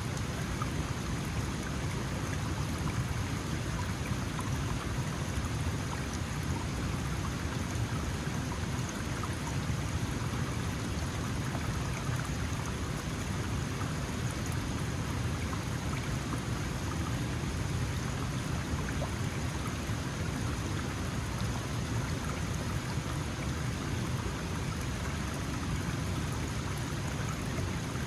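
Small mountain stream flowing over rocks: a steady, even rush of water with a deep low rumble and fine splashing.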